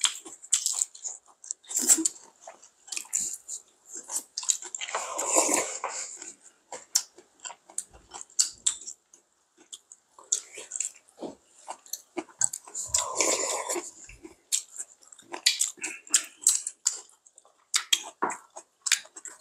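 Close-up chewing and biting of a lettuce wrap, with wet mouth sounds and scattered light clicks of chopsticks and a spoon against bowls.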